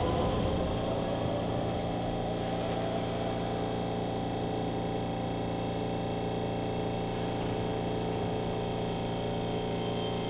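Keihan 3000 series electric train heard from inside the car while standing at a station. The running noise dies away in the first second or so, leaving a steady hum of onboard equipment with several fixed tones.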